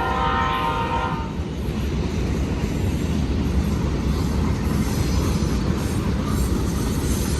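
A diesel locomotive horn sounds for about a second at the start and breaks off, then a BNSF freight train runs on with a steady rumble of wheels and railcars rolling by.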